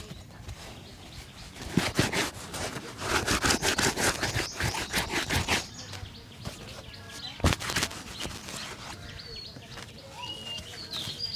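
Quick rubbing strokes of a shoe being brushed and polished, in a dense run through the middle, with one sharp tap later on. Birds chirp in the background, mostly near the end.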